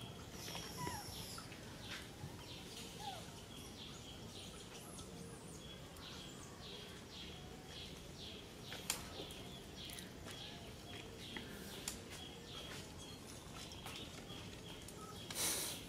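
Quiet outdoor ambience: birds chirping in short high calls over a faint high steady tone and a low background hum, with a brief louder rushing noise near the end.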